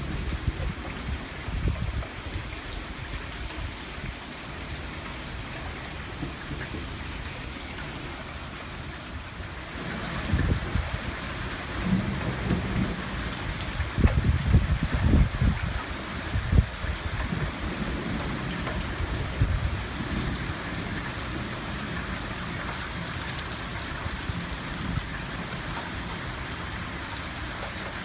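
Heavy rain pouring steadily, growing louder about a third of the way in, with rolling thunder rumbling through the middle.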